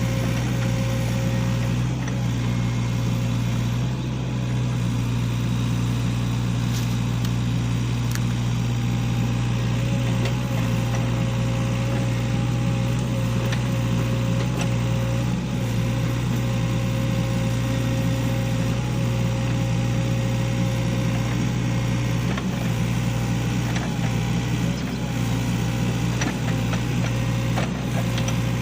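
SANY hydraulic excavator's diesel engine running steadily under work, a constant low hum, with a few light clicks and knocks from the machine.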